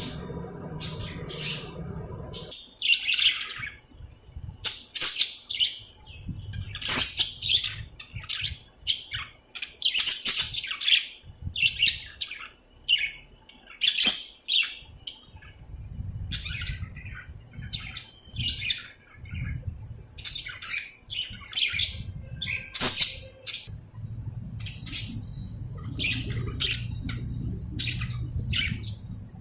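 Birds chirping and squawking in a rapid, uneven string of short, high calls, several a second.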